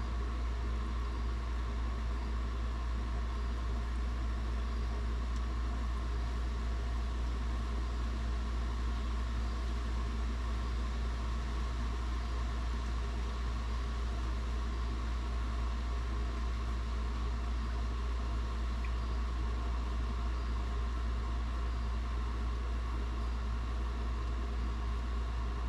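An engine idling steadily: a constant low hum with no revving or breaks.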